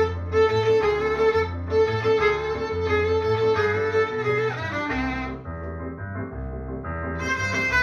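Violin playing a held, singing melody over a low, evenly pulsing accompaniment. The violin line drops out for about two seconds partway through and comes back near the end.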